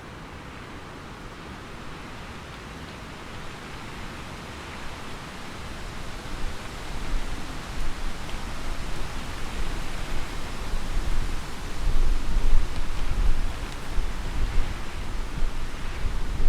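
Steady hiss of heavy rain, with a low rumble of thunder building up over the second half and loudest near the end.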